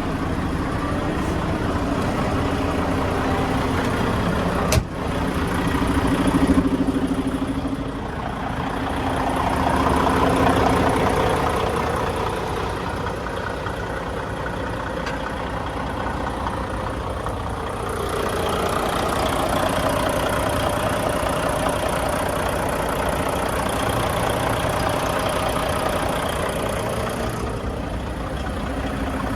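Mack Granite truck's diesel engine idling steadily, with a sharp click about five seconds in.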